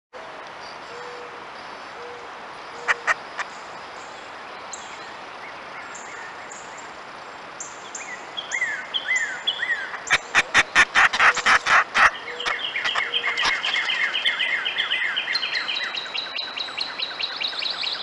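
Birds calling. There are scattered high whistles at first. From about eight seconds in, a bird repeats short, falling chirps several times a second, with a fast run of sharp clicks between about ten and twelve seconds.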